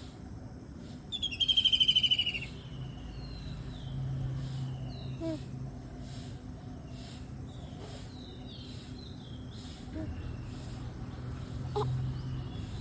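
Kingfisher calling: one loud, rapid trill that falls slightly in pitch, about a second in and lasting about a second and a half, with faint short chirps of other birds around it.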